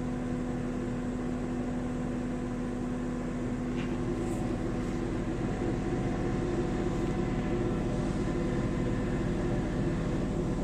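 Steady hum of a running electric machine, a constant drone with a held low tone, growing slightly louder about halfway through.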